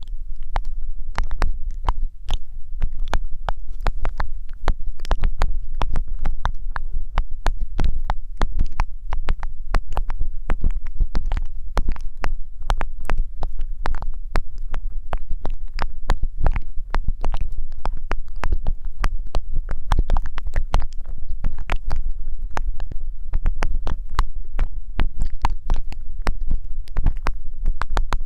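Close-miked ASMR rubbing and crackling right on the microphone: a dense run of irregular crackles and clicks over a low rumble.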